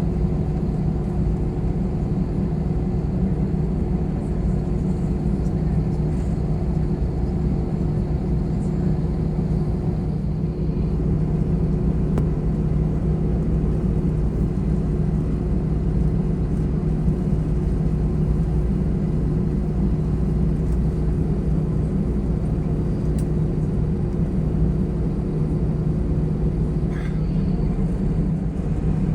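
Airbus A320-214 cabin heard from a window seat: the steady low rumble of its CFM56 engines and airframe, with an even hum under it, as the jet readies for takeoff.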